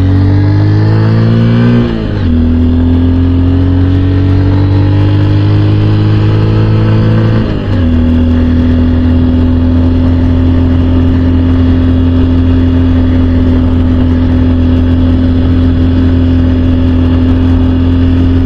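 Honda XR150L's single-cylinder engine running hard uphill. Its revs climb and drop sharply twice as it shifts up, then it holds a steady pitch at full throttle, strained by the climb and the altitude.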